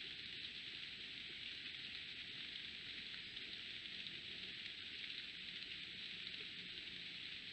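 Steady hiss of rain falling in woodland, picked up by a trail camera's microphone, with a faint high steady tone above it.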